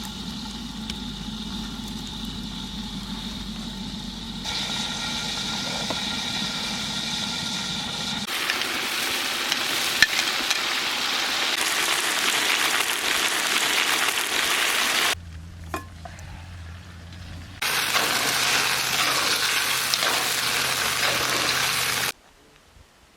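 Chicken frying in hot oil, sizzling steadily, in separate stretches broken by abrupt cuts. The first several seconds hold a steady hum with a few held tones instead.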